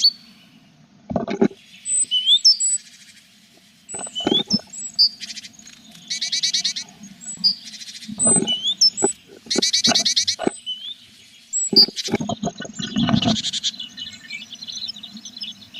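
Tit nestlings in a nest box calling in short, rapid buzzy bursts, mixed with thin gliding chirps. Scuffles and bumps of the birds moving in the box come in between, several times.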